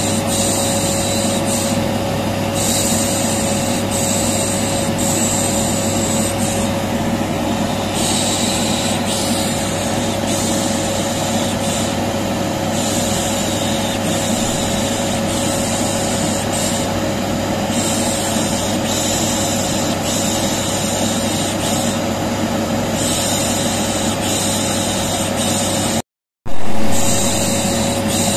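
Vacuum cleaner motor running steadily, a constant whooshing hum with a fixed whine, used as white noise to soothe a colicky baby, with 'shh shh' shushing mixed in. The sound cuts out for a moment near the end and comes back louder.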